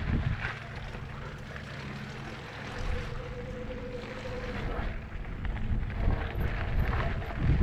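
Electric mountain bike riding over a dirt trail: tyres and frame rattling over the ground with scattered clicks and knocks, and wind on the microphone. A steady whine is held for about two seconds near the middle.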